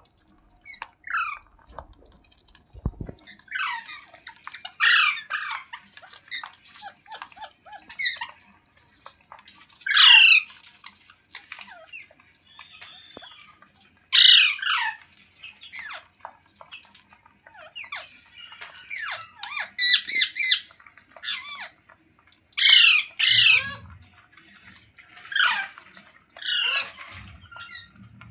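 Ringneck parrot (rose-ringed parakeet) squawking: a string of loud, harsh calls, many falling in pitch, every couple of seconds, with softer chatter in between.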